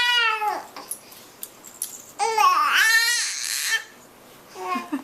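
Baby girl vocalizing to herself: high-pitched cooing calls that bend and mostly fall in pitch. There is a short call at the start, a longer one from about two seconds in, and another beginning near the end.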